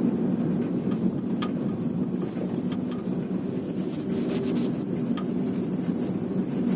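Nissan Sunny FB15 driving with a steady low drone, and a sharp knock from the rear of the car coming in irregularly, about half a dozen times. The knock is a fault the owner has not been able to trace.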